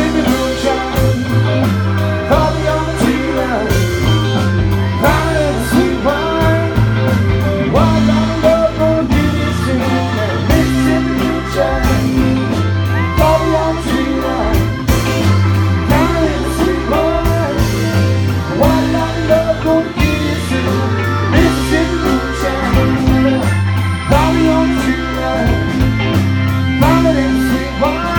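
A live psychedelic rock band playing: a bending lead line, likely electric guitar, over a stepping bass line and steady drums.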